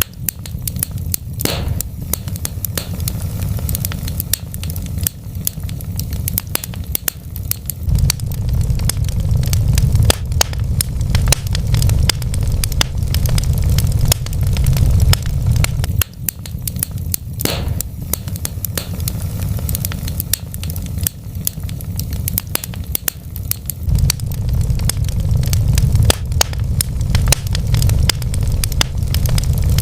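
Wood fire burning in a fireplace: dense small crackles and pops over a steady low rumble, with two louder pops, one about a second and a half in and another a little past the middle.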